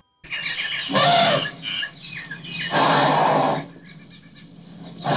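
Elephant trumpeting in several loud blasts, one about a second in and a longer one about three seconds in.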